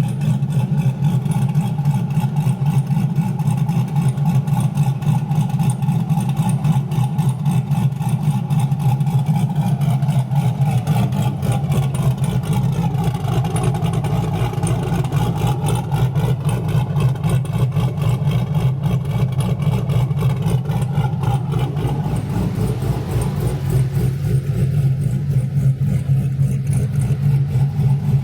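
Cammed Chevrolet Camaro engine idling steadily with an even pulsing exhaust note after a cold start in below-freezing weather, warming up. The idle note shifts slightly about two-thirds of the way through.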